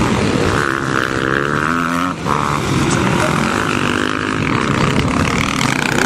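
Motocross motorcycle engines revving on the track, their pitch falling and rising as the throttle is rolled off and on, with a brief drop about two seconds in.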